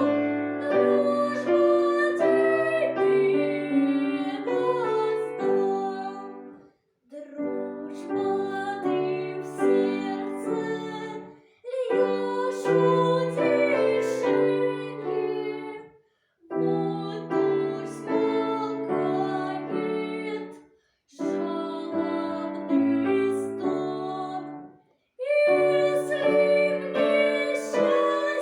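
Piano music: notes and chords played in phrases of about four to five seconds, each phrase breaking off into a short silence before the next begins.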